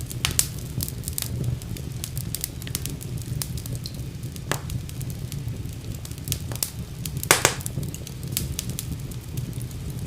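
Fire burning in a fireplace: a steady low rumble of flames under constant crackling, with a few sharper pops, the loudest about seven seconds in.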